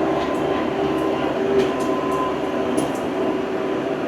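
An old farm tractor's engine running steadily, with short metallic clinks and rattles now and then.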